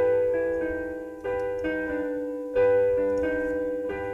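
Slow piano music: a new chord struck about every second and a quarter, each left to ring and fade before the next.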